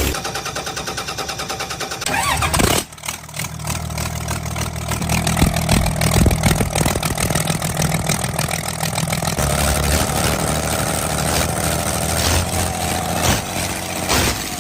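Diesel engine cold start: the starter cranks it for about two seconds, and it catches about three seconds in. It then runs on steadily with a rapid clatter.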